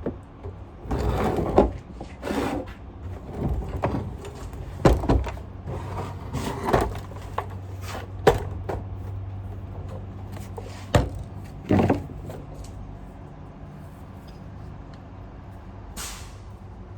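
Knocks, clunks and scrapes of Sanitaire vacuum parts being handled, most of them in the first twelve seconds, with one short hiss near the end. Under them runs the steady low hum of a garbage truck's engine, which drops away about two-thirds of the way through.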